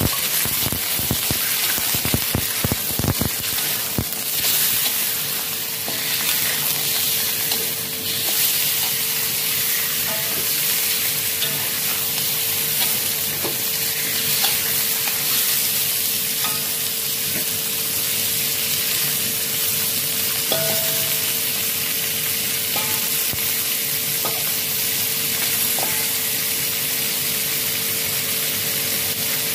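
Raw chicken wings sizzling in hot oil in a wok with garlic, shallots, chilli and ginger. In the first few seconds a metal ladle knocks and scrapes against the wok, then a steady frying hiss.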